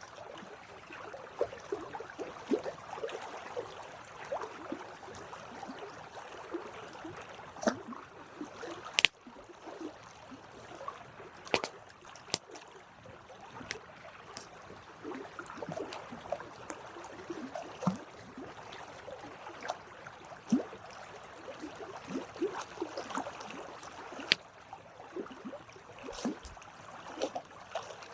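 Campfire burning: a steady crackle with frequent sharp pops and snaps scattered irregularly throughout, a few of them much louder than the rest.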